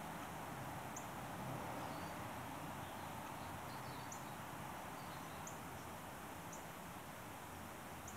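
A small bird giving short, high call notes, repeated irregularly about once a second, with a few fainter chirps in between, over steady background noise.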